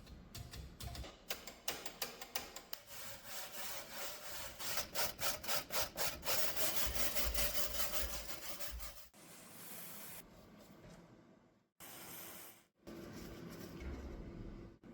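Quick, rhythmic hand scrubbing or scraping strokes on rusty metal parts, as in brushing or filing rust away. About nine seconds in, the sound breaks off sharply into shorter stretches of similar working noise.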